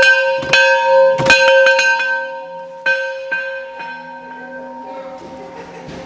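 A metal bell struck repeatedly in quick, uneven strokes, each strike ringing on with a clear steady pitch; the strikes stop about four seconds in and the ring fades away.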